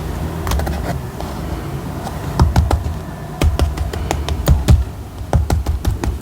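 Paper and stationery handled on a desk for journal decorating: a quick run of taps and clicks, denser and louder in the second half, over a low rumble.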